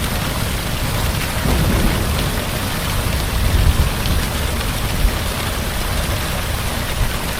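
Heavy rain falling steadily, with low thunder rumbling underneath that swells twice, about two seconds in and again near the middle.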